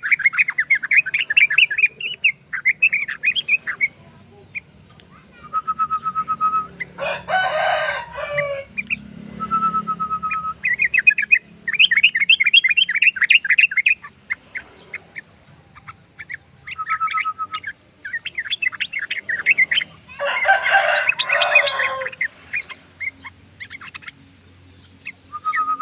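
Yellow-vented bulbul (trucukan) singing in fast rolling runs of short chirps, the 'ropel' style, with a held whistled note between runs. Twice, a louder, coarser call of about a second and a half cuts across the song.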